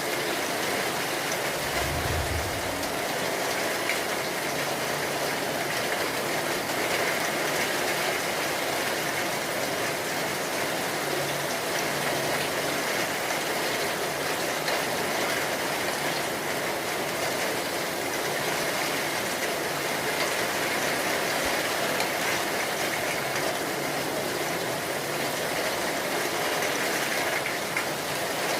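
Steady heavy rain falling, an even hiss with no break. About two seconds in there is a brief low rumble.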